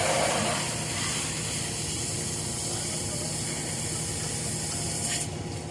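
Water spraying from a hose onto fresh concrete: a steady hiss that cuts off suddenly about five seconds in. A machine engine hums steadily underneath.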